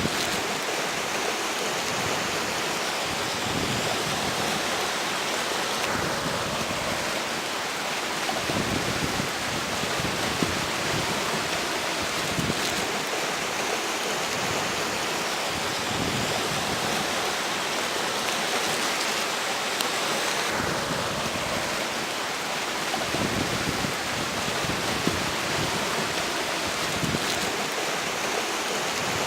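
River water flowing and rushing steadily, with strong wind gusting over it and buffeting the microphone in low rumbles that come and go.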